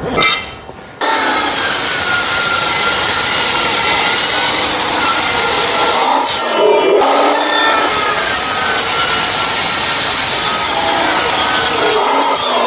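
Metal-cutting angle saw with a steel blade cutting through thin 2 mm-wall steel pipe: a steady, loud cutting noise that starts about a second in, eases briefly in the middle and stops just before the end.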